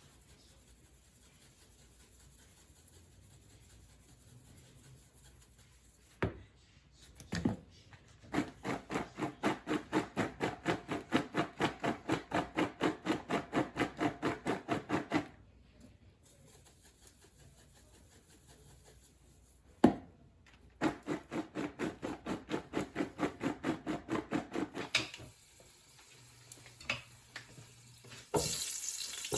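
Knife chopping on a wooden cutting board in two runs of quick, even strokes, about four a second. Near the end a steady sizzle of food frying in a pan begins.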